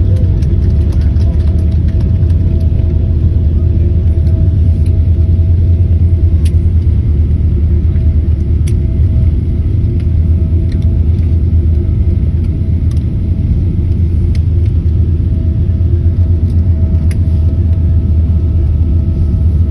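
Airliner cabin noise during the landing: a loud, steady low rumble with a steady hum tone over it and a few faint clicks.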